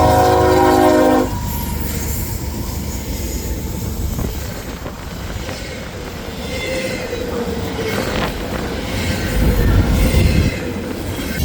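Train horn sounding a multi-note chord that cuts off about a second in, then the train rolling along the rails with a steady rumble and faint wheel squeal.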